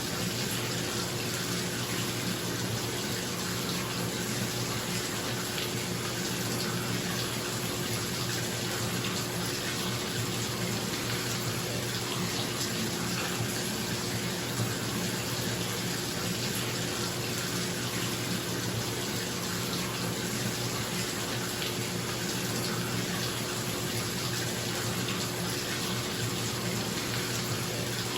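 Bathtub tap running steadily into the tub, a constant rush of water, with a bathroom exhaust fan's steady hum underneath.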